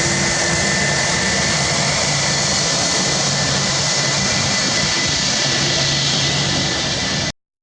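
Jet airliner engines: a loud, steady rushing noise with a few steady high whining tones in it. The sound cuts off abruptly near the end.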